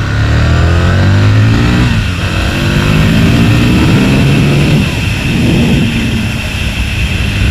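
Aprilia RSV's V-twin motorcycle engine accelerating under way. The revs climb, drop back at a gear change about two seconds in, climb again and drop at a second change near five seconds, then run steadier.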